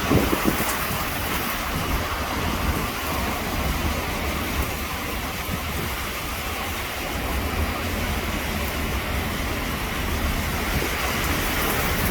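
Heavy thunderstorm rain and strong wind: a steady roar with a deep rumble of wind buffeting the microphone, briefly louder at the very start.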